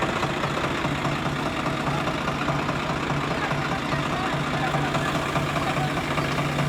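Swaraj 855 FE tractor's three-cylinder diesel engine running at a steady speed.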